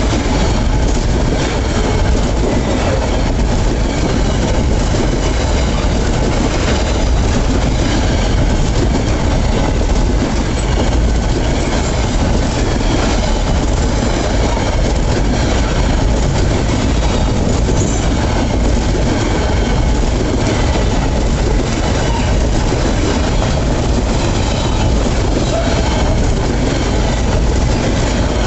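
Freight train passing close by: its wagons roll past in a steady loud rumble, and the wheels clack over the rail joints.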